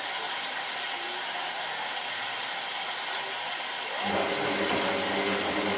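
Hotpoint 9534A washing machine running: a steady hiss, then about four seconds in the drum motor starts up with a low, even hum.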